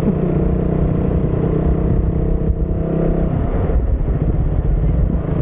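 Motorcycle engine running while riding, its note changing about three seconds in.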